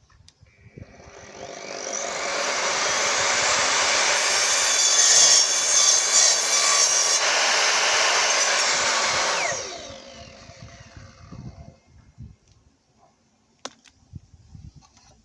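Evolution R255SMS multi-material mitre saw spinning up, cutting through material for a few seconds with a harsher edge in the middle, then winding down with a falling whine after about nine and a half seconds.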